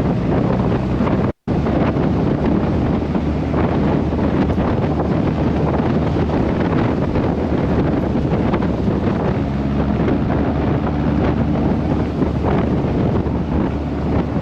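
Car driving on the road: steady engine and road noise under heavy wind buffeting on the microphone. The sound cuts out completely for an instant about a second and a half in.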